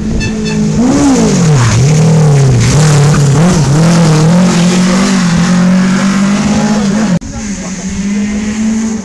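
Rally car engine running hard at high revs. About a second in, the revs drop sharply and then climb back, as on a lift and gear change through a corner. The engine keeps pulling high, unsteady revs, and near the end the sound breaks off abruptly and resumes as a steady engine note.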